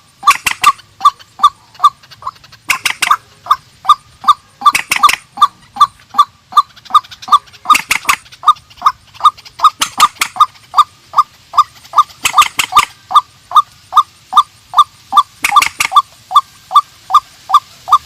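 Calls of rails, the white-breasted waterhen and the trích ré: a steady run of short, even notes, about three a second, broken every two to three seconds by a loud, harsh screech.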